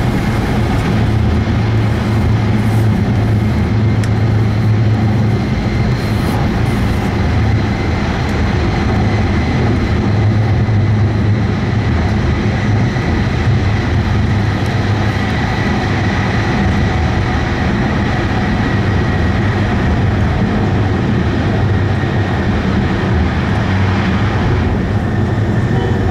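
Cabin noise inside an E5 series Shinkansen passenger car running at speed: a steady, loud rumble of wheels on track and air rushing past, with a faint high whine.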